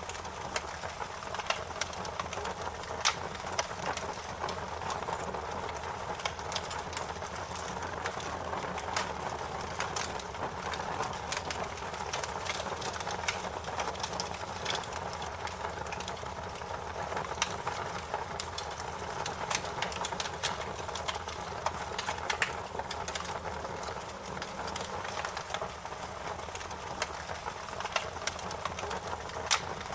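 Fire crackling: a steady rushing hiss of flames with many small sharp snaps and pops at irregular moments, a few of them louder than the rest.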